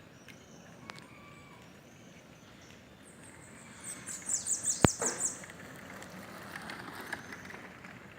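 Bananaquit (sibite) singing a rapid, high-pitched run of short falling notes about three seconds in, lasting some two seconds, with a sharp click near its end, then fainter twittering.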